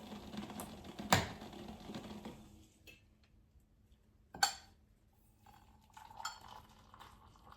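Kitchen dishes and utensils clinking and knocking: a sharp knock about a second in, another about four and a half seconds in, and lighter clatter near the end.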